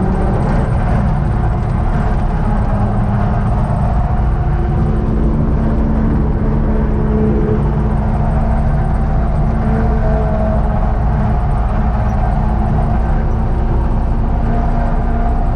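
UTB Universal 650 tractor's four-cylinder diesel engine running steadily, with an even, unchanging drone.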